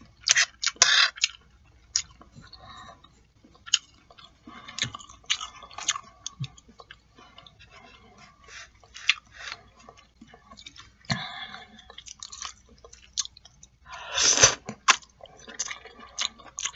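A person chewing and smacking a mouthful of jajangmyeon black bean noodles close to the microphone, with many short wet mouth clicks. About fourteen seconds in there is a louder, longer burst of noise.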